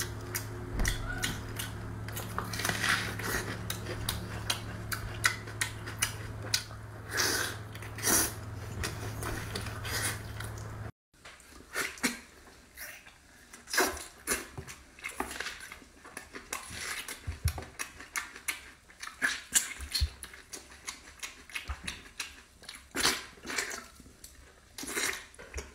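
Close-up wet eating sounds of braised pork skin and fat: sharp lip smacks, sucking and chewing in quick irregular clicks. A steady low hum runs under the first half and drops out at a cut about eleven seconds in.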